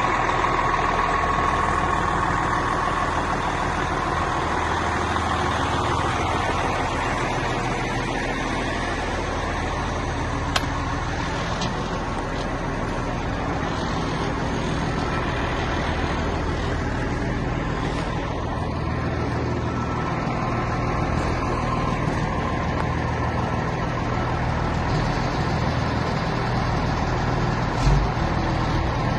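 Diesel engine of a 2002 Kenworth C500 oilfield bed truck running steadily at idle. There is a single sharp click about ten seconds in and a couple of short thumps near the end.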